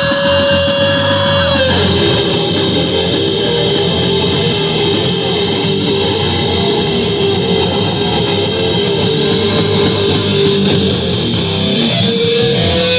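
Live rock band playing loud, electric guitar and drum kit. A held guitar note rings over the opening before the full band comes in.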